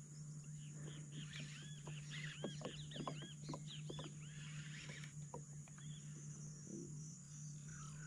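A bird chattering in a quick run of short, arching chirps for a few seconds, dying away about halfway through, over a steady low hum.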